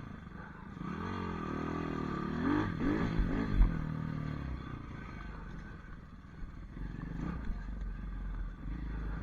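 Small pit bike engine revving, its pitch rising and falling several times from about a second in, then settling to a steadier, lower running.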